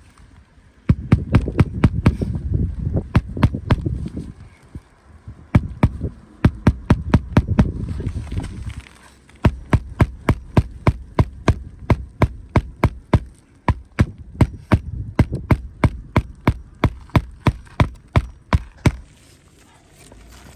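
Hammer driving roofing nails into a new asphalt shingle: quick strikes about three a second, in short runs and then a long steady run, with a low rumble under the first runs. The hammering stops near the end.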